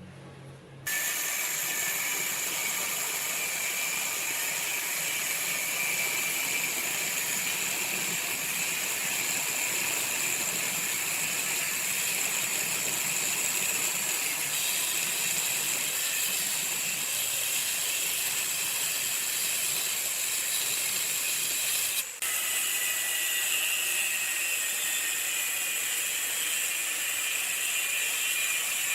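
A motor-driven machine running steadily with a high whine, starting abruptly about a second in and briefly cutting out about three-quarters of the way through.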